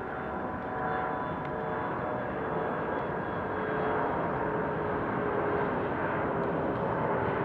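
Jet airliner's engines during a departure: a steady rumble with a few whining tones over it, slowly growing louder.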